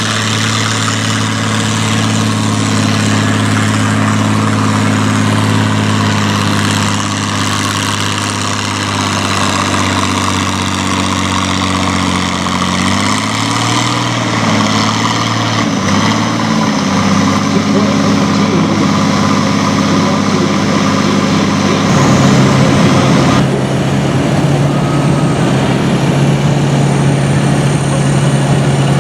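Farm tractor engine running loud and steady under load at a tractor pull. Its pitch wavers about halfway through and settles onto a steadier, higher note near the end.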